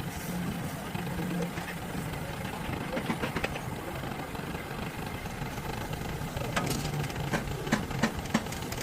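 An engine idling steadily, with a few sharp clicks or knocks near the end.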